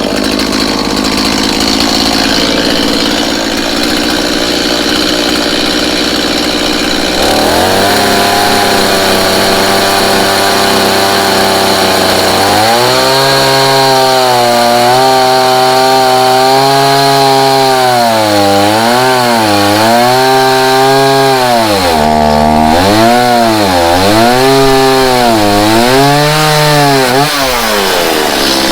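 Stihl MS170 two-stroke chainsaw running low on gas. The engine note turns steady about seven seconds in, then for the last ten seconds or so it surges up and down over and over: the hunting of a saw starved of fuel as the tank runs dry.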